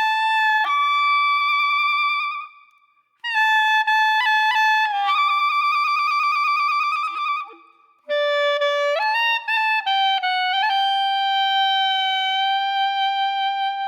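Background music: a single wind instrument playing a slow melody in three long held phrases, with short pauses between them.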